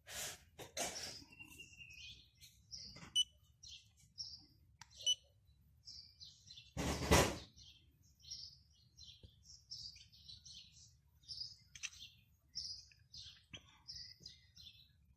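Birds chirping over and over in short, high calls. A brief rush of noise comes at the start and a louder one about seven seconds in.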